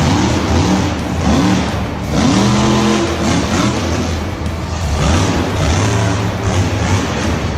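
Engine revving up and down over and over, each rev a rising then falling whine, over a steady low hum.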